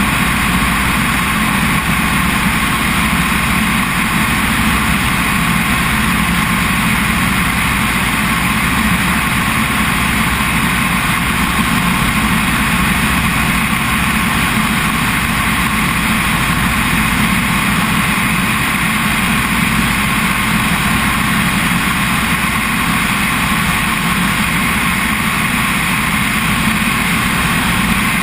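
Helicopter engine and rotor noise, loud and steady without a break.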